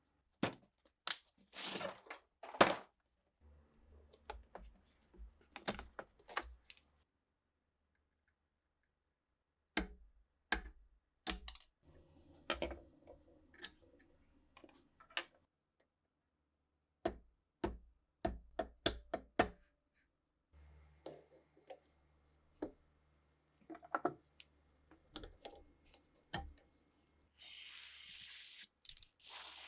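Small sharp clicks and knocks of rifle parts being handled in clusters during a restoration, then a steady hiss lasting about two seconds near the end.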